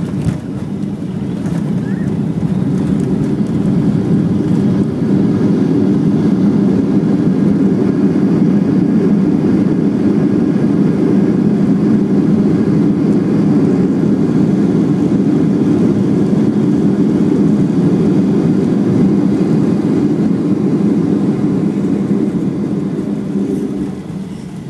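Cabin sound of a Boeing 737-800 touching down. A sharp thump right at the start as the wheels meet the runway, then a loud, steady low rumble from the CFM56 engines and the landing roll. The rumble builds over the next few seconds as the engines spool up for reverse thrust, holds, and eases off a second or so before the end.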